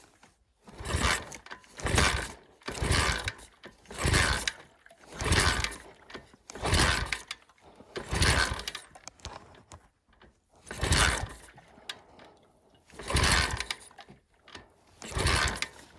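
Flywing pit bike being kick-started over and over, about eleven strokes roughly a second apart, each a short mechanical whoosh of the engine turning over without catching and running.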